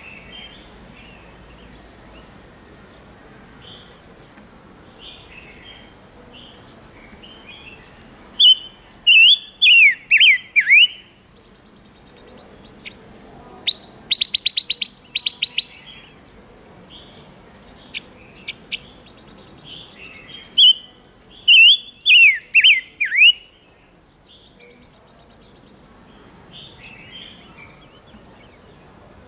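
A caged ngũ sắc songbird singing as a lure bird: soft calls, then two loud song phrases of quick descending whistles, with a fast chattering run of sharp notes between them, about halfway through.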